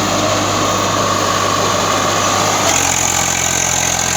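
Swaraj tractor's diesel engine running steadily, its note shifting a little about two-thirds of the way through.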